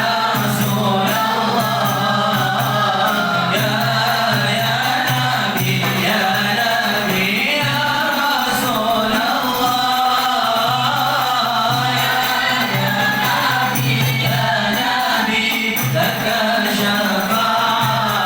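A group of voices chanting a devotional Arabic qasidah in unison, with a steady sung melody and percussion striking along.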